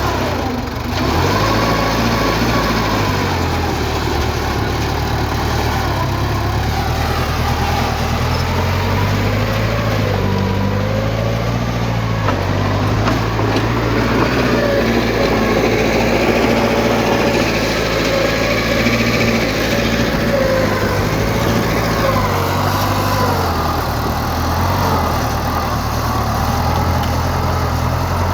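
Heavy diesel earthmoving machinery running steadily, with a wavering whine above the low engine note.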